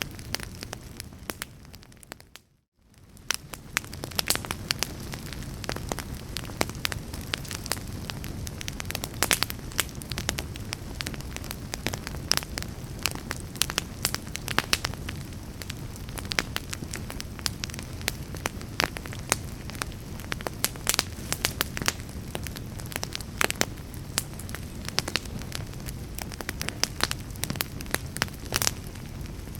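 Wood fire burning in a fireplace, a steady low rumble with constant crackling and sharp pops. It fades out briefly about two and a half seconds in, then comes back.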